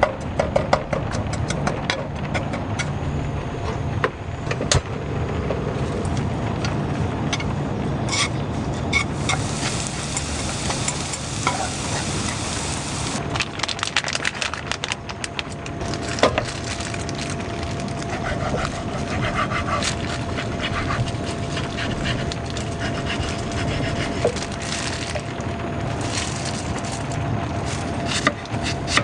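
Heavy rain falling steadily, with many scattered taps and clicks of drops striking, and a brighter hiss swelling for a few seconds near the middle.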